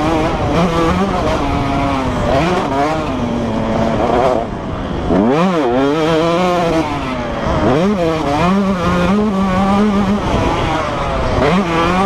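Motocross bike engines revving hard and dropping back, pitch climbing and falling again and again as they accelerate and shift, with one sharp rev and drop about five seconds in.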